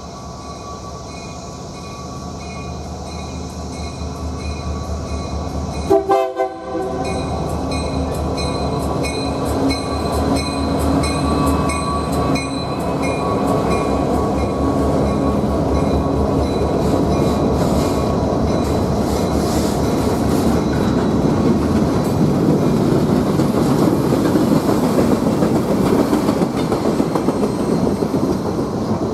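A work train approaching and going by on the rails, growing steadily louder. Steady tones are heard over a widening rumble, with a sharp knock about six seconds in and rhythmic clicking of the wheels.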